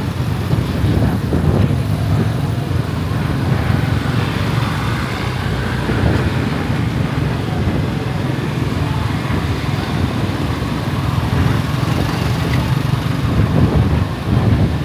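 Motorbike riding through city traffic: steady engine and road noise with wind rushing over the microphone.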